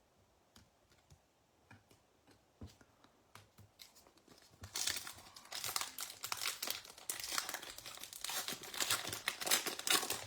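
A few light clicks of handled cards, then, from about halfway, dense crinkling as a baseball card pack's foil wrapper is torn open.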